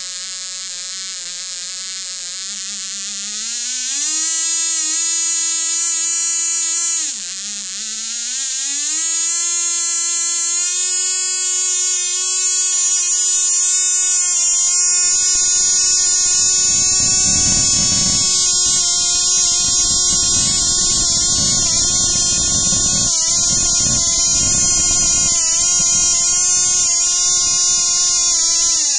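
Cox Tee Dee .010 two-stroke glow model engine running at very high speed: a loud, high-pitched buzzing whine. It starts abruptly and rises in pitch over the first few seconds, dips briefly about seven seconds in, then climbs back and holds steady until it cuts off suddenly at the end.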